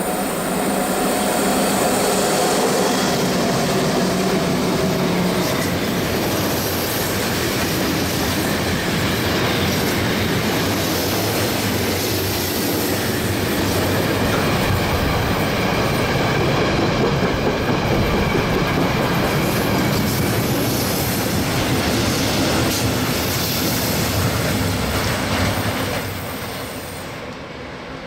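Train running on the Semmering mountain railway: a loud, steady rumble of wheels on rails with faint high wheel squeal at times. It eases off near the end.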